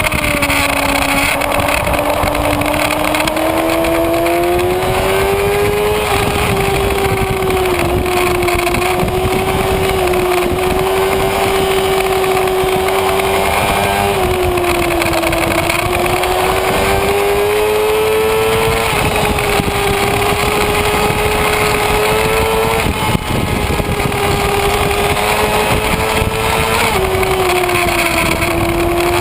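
Kawasaki Ninja ZX-6R's inline-four engine heard on board at speed, under heavy wind rush. Its note climbs and drops back several times as the throttle opens and closes and the gears change.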